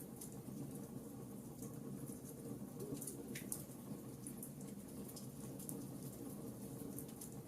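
Wood fire burning in a fireplace: scattered small crackles and pops over a steady low rumble of the flames, with one sharper pop about three seconds in.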